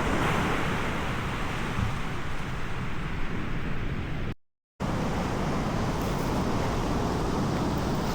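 Wind buffeting the microphone over a steady outdoor roar, cut off by a sudden half-second gap of silence a little past halfway.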